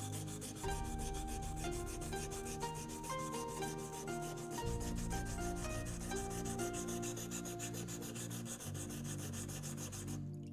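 A steel knife blade is rubbed back and forth on an abrasive surface in quick, even strokes, the scraping grind of rust removal or sharpening. Soft melodic background music plays underneath.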